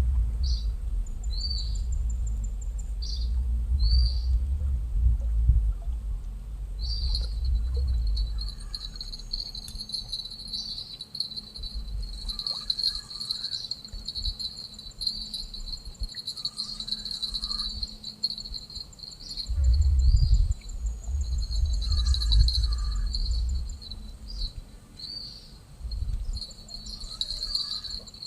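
Insects such as crickets calling in a high, rhythmic chirping: separate chirps at first, running together into a continuous trill after a few seconds. A low rumble, like wind on the microphone, comes and goes underneath.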